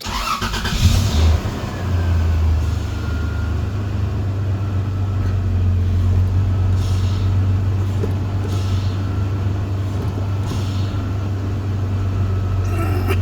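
Car engine starting and then idling with a steady low hum.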